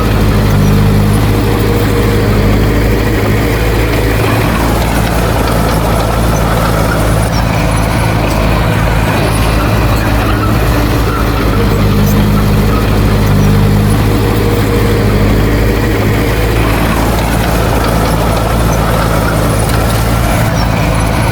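Heavy diesel engine of earthmoving machinery running loudly and continuously, its note swelling twice under load, near the start and again about midway.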